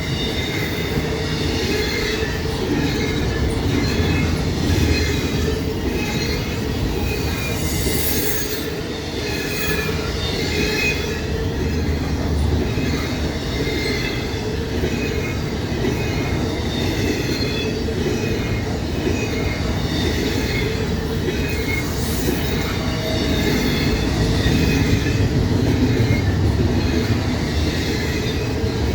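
Freight train cars rolling past at close range, the wheels squealing against the rails in high wavering tones over the steady rolling noise.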